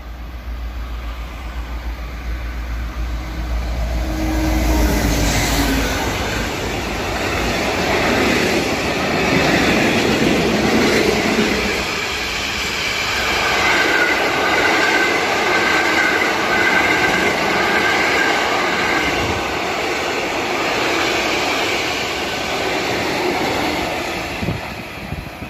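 Works train of yellow hopper and conveyor wagons passing close by: a low rumble as it approaches, then a loud clatter of wheels over the rail. A steady high wheel squeal runs through the middle.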